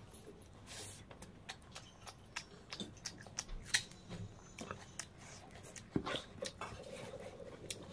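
A person chewing a mouthful of curried rice, with soft wet mouth clicks and lip smacks scattered throughout and one sharper click a little under four seconds in.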